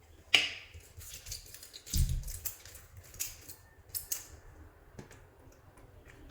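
Crisp clicking and crackling handling sounds from clay-play materials being worked by hand, in irregular bursts, with a soft low thump about two seconds in.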